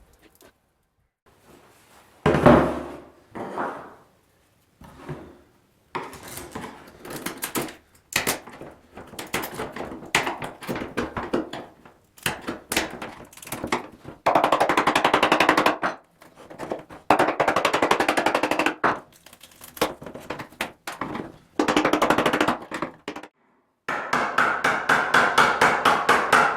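Old fiberglass repairs being stripped off a trike's seat unit: a run of short separate clips of knocks, scraping and cracking. Three longer stretches of a fast, even buzzing tool come about halfway, a little later and near the end.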